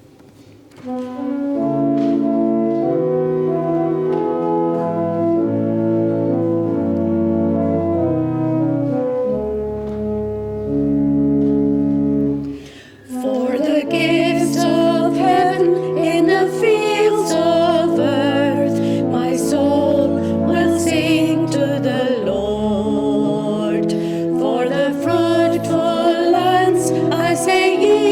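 Organ playing a hymn introduction in sustained chords, pausing briefly just before the halfway point; then singing voices come in over the organ accompaniment.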